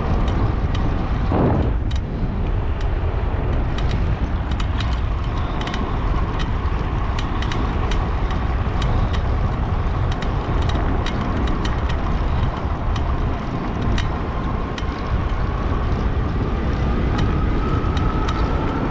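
Riding an electric bike: steady wind rush and rumble over the microphone, with a faint whine from the electric motor that climbs slightly in pitch near the end, and scattered small ticks and knocks from the bike on the path.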